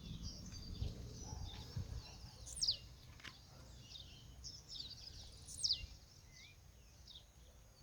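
Blue-black grassquit (tiziu) singing: a short, high note falling steeply in pitch, heard twice about three seconds apart. Fainter chirps of other birds sound in between.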